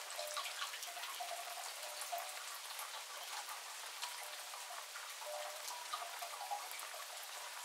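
Steady rain: a dense patter of drops, with short pitched plinks of drops falling into water.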